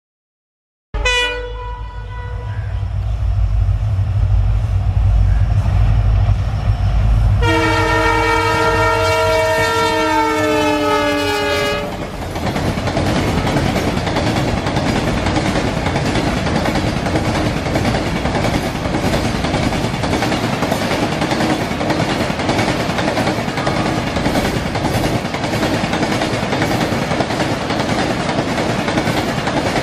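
Twin WDG-4D diesel locomotives pass at speed with a BTPN oil tanker train. There is a short horn blast about a second in, then the locomotives' engines running loud as they come through, and a long horn blast about seven seconds in whose pitch drops slightly. After that come the tanker wagons rushing past, with a steady rattle and a regular clatter of wheels over rail joints.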